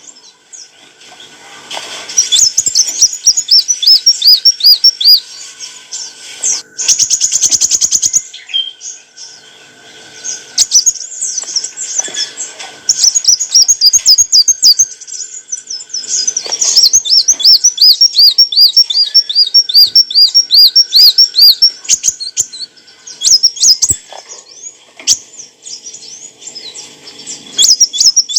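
Kolibri wulung (black sunbird) singing a rapid, high-pitched twittering song: long runs of quick repeated chirps with short pauses between them, and a brief buzzy rattle about seven seconds in.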